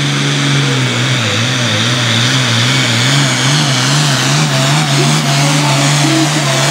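International hot farm pulling tractor's engine running flat out under full load as it pulls the sled. Its note wavers up and down about one and a half times a second over a steady rush of noise.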